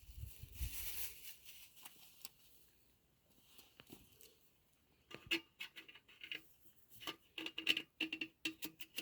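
Thin sheet-metal stove flue parts being handled: a soft rustle at first, then from about five seconds in a run of light clinks and taps, some ringing briefly.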